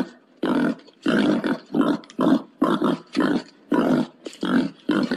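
Black pot-bellied pig grunting steadily, about two short rough grunts a second.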